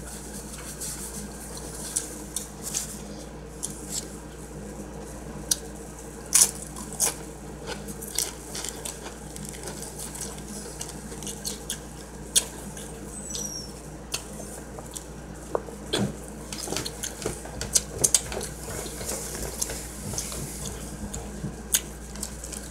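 A person eating a turkey hoagie close to the microphone: chewing and mouth sounds with many scattered sharp clicks and crackles, over a steady low hum.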